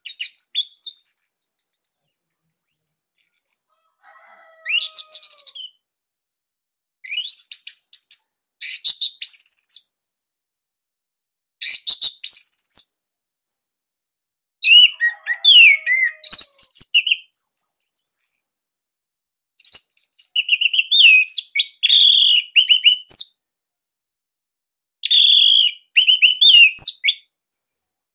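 Orange-headed thrush singing: loud, tightly packed phrases of quick, high, sliding whistles, given in about seven separate bursts with short pauses between them.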